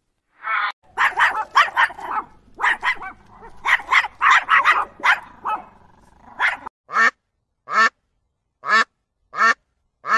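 Waterfowl quacking: a quick run of closely packed calls for about five seconds, then five single calls spaced roughly a second apart.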